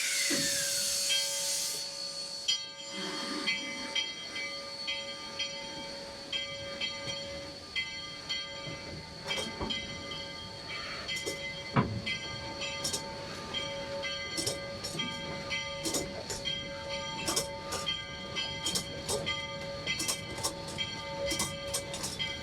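Cab of the No. 40 steam locomotive backing up: a hiss of steam for the first two seconds, then the steady running of the engine with irregular clanks and clicks, and a sharp knock about twelve seconds in.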